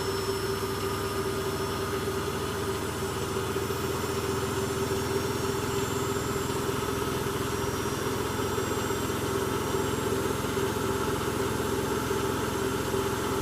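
Electrolux W455H commercial washing machine in its high-speed spin extraction: a steady machine hum with one held tone, unchanging throughout.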